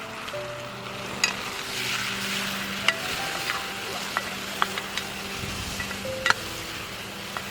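Mutton sizzling as it fries in a pan while being stirred, with a utensil clicking sharply against the pan several times.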